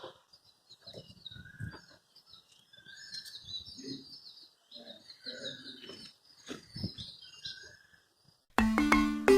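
Small birds chirping repeatedly in short notes, with a few faint low knocks in between. Loud music with mallet percussion starts suddenly near the end.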